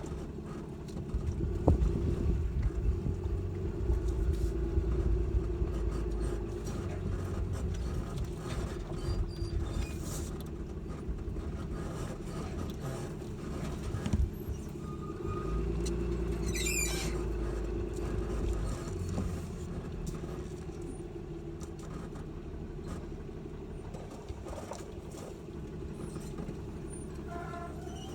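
Four-wheel-drive pickup truck with a camper driving on a rough back road: steady low engine and road rumble, with knocks and rattles over bumps, the sharpest about two seconds in and about fourteen seconds in. A brief high squeak comes about seventeen seconds in.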